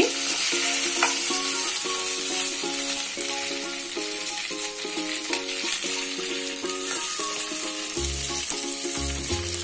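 Steamed rice-flour fara sizzling in hot tempered oil in a frying pan while they are stirred and turned with a wooden spatula, a steady hiss. A background melody of held notes plays over it, with low bass notes coming in near the end.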